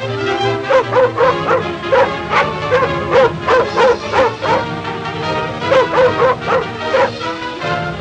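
A dog yipping and whining in a quick run of short, rising-and-falling cries, about two or three a second, over orchestral film music. The cries stop near the end while the music goes on.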